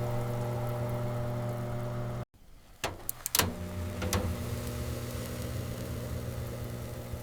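Microwave oven running with a steady electric hum. It stops abruptly about two seconds in, a few sharp clicks follow, and the hum starts again.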